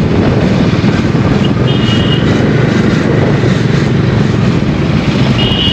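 Motorcycle riding at road speed: a steady low rumble under rushing noise. Two short high-pitched beeps sound over it, about two seconds in and again near the end.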